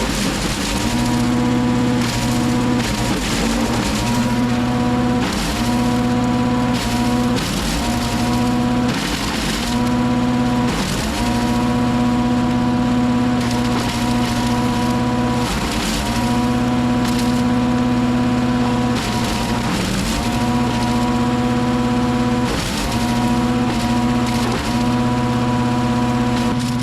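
Wood chipper's engine running steadily, its pitch dipping briefly every couple of seconds as it bogs under the load of branches being fed in. Wood crunches and splinters through the chipper throughout.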